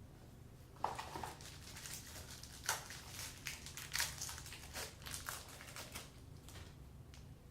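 Packaging being handled, crinkling and crackling in irregular bursts from about a second in, dying down near the end.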